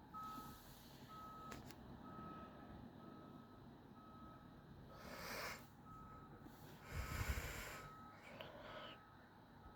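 Vehicle reversing alarm beeping steadily at a single pitch, about three beeps every two seconds, heard faintly. Two short bursts of hissing noise break in about five seconds in and again around seven seconds, the second one louder, with a rumble.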